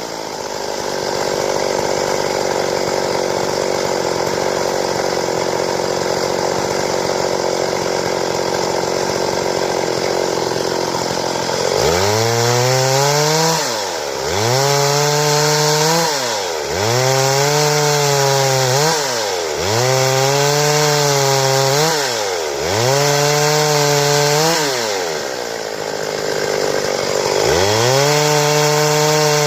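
Stihl chainsaw running at high revs, cutting wood for about twelve seconds. Then its engine revs up and drops back over and over, about every two and a half seconds.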